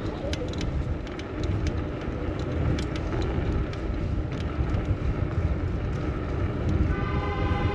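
Road traffic heard from a moving bicycle in city streets, with a heavy low rumble and scattered sharp clicks and rattles. Near the end, a steady pitched tone with several overtones sets in.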